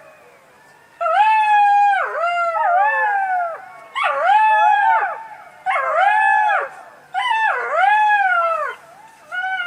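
Fox calling: a series of high, whining, howl-like cries, each a burst of about a second made of two or three arching notes that rise and fall, about six bursts with short pauses between.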